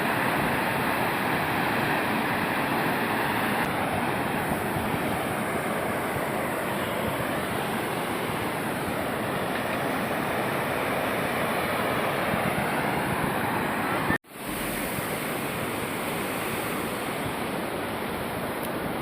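Steady rush of water flowing over the dam. It cuts out for a split second about 14 seconds in, then resumes.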